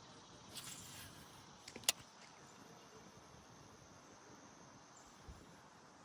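Faint outdoor background hiss broken by a few sharp clicks, the loudest about two seconds in.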